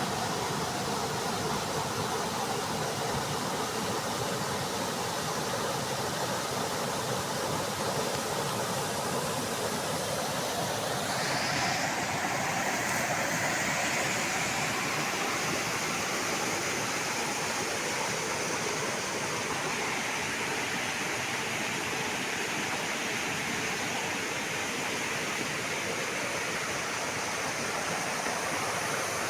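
Steady rush of running water. It grows a little brighter and louder about eleven seconds in.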